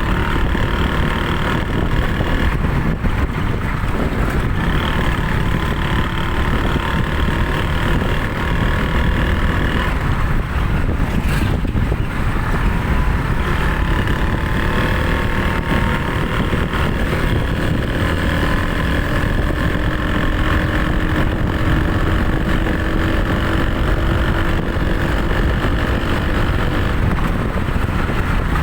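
A vehicle's engine running as it drives along, its pitch drifting slowly up and down, over a constant low rumble with wind buffeting the microphone.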